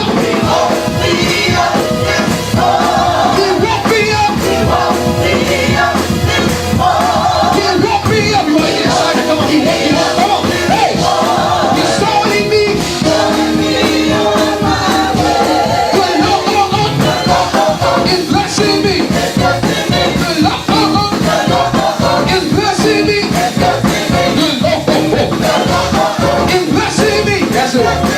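Live gospel praise music: a church band plays an upbeat song with drums and shaker-like percussion, and voices sing along.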